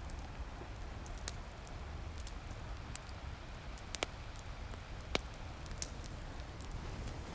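Wood fire crackling, a handful of sharp pops scattered over a few seconds, the strongest about four and five seconds in, over a steady low wash of ocean waves.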